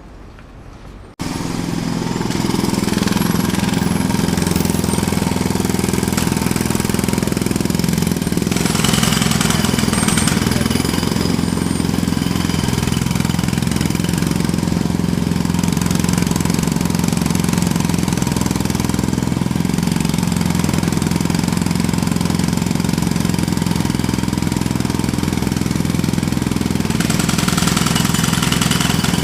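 Jackhammer starting abruptly about a second in, then hammering without a break.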